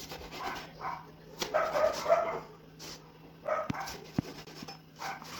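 A dog barking in short bursts, loudest about a second and a half in, with a couple of sharp knocks later on.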